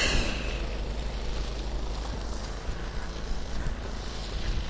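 Steady outdoor rumble and hiss, with a short sharp scrape or click right at the start.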